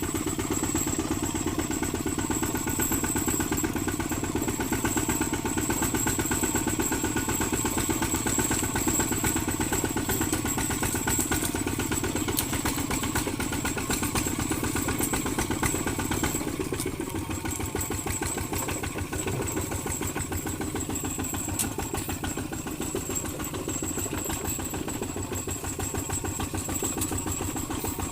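Kubota ZT155 walking tractor's single-cylinder diesel engine running steadily with an even, fast chugging beat and a faint high whine; it eases off slightly about two-thirds of the way through.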